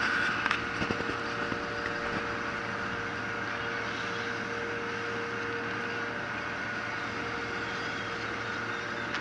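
Engine running steadily, a constant drone with a couple of held tones, with a few clicks in the first two seconds.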